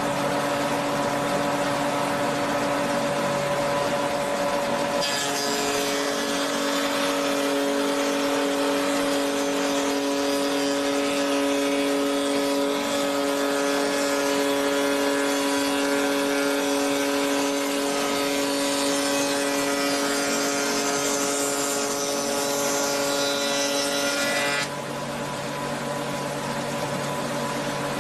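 SH30-2 woodworking milling machine running with a steady hum. A few seconds in, the cutter bites into a wooden workpiece and a dense, higher cutting noise joins the hum. The cutting noise stops abruptly near the end, leaving the machine running freely.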